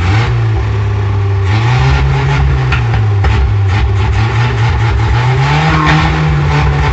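Nissan KA24 inline-four car engine running loudly through its exhaust, held at a steady pitch that rises a little about two-thirds of the way through, with irregular cracking pops from the exhaust from about a second and a half in.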